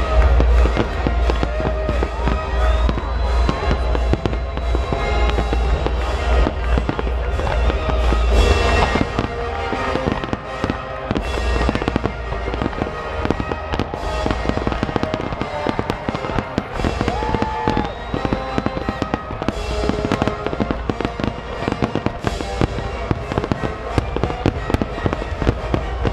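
Aerial fireworks display: shells bursting overhead one after another, many sharp bangs in quick succession, with music playing along.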